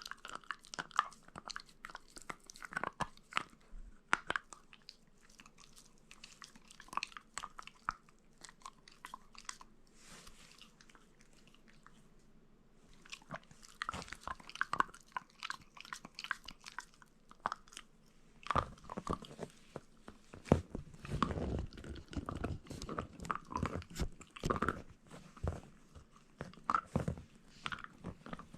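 A Shiba Inu gnawing and crunching on meat: irregular sharp crunches and chewing, thinning out briefly near the middle, then coming thicker and heavier in the second half.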